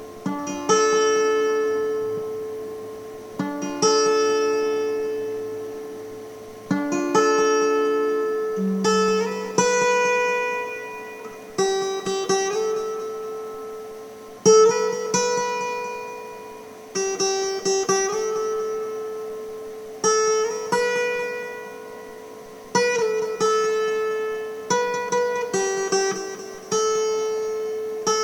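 Music: a clean guitar picking slow chords note by note, each group of notes ringing out and fading before the next begins every two to three seconds.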